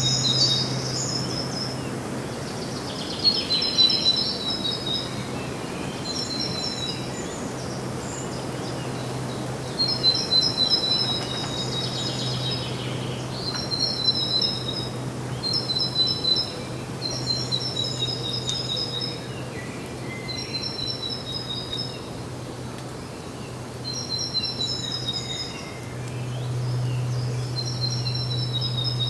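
Birds chirping: short, high, twittering phrases repeated every two to four seconds. A steady low hum runs underneath.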